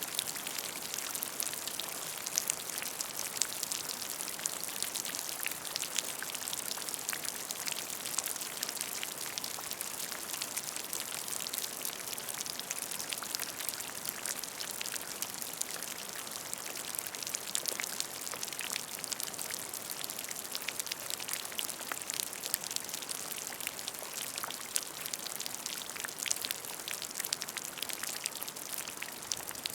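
Steady rain falling into a puddle: a dense, even patter of many individual drops hitting standing water.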